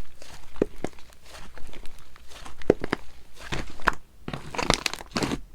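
Sherbet-textured slime being squished and pressed by hand, giving an irregular run of crunchy crackles and small pops.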